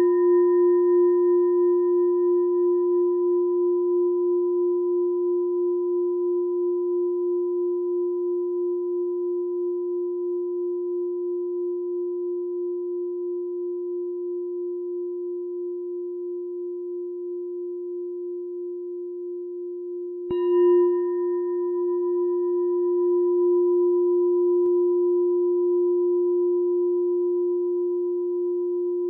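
Meditation bell ringing with a long, slowly fading low tone that pulses gently. It is struck again about twenty seconds in and rings on.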